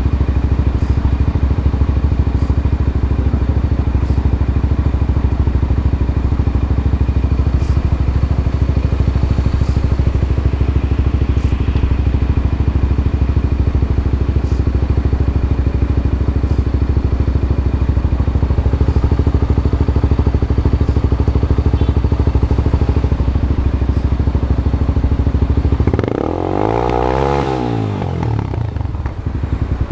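Honda CB Twister motorcycle's single-cylinder engine idling steadily through a new aftermarket exhaust, then revved once about 26 s in, the pitch rising and falling over about two seconds before it drops back to idle.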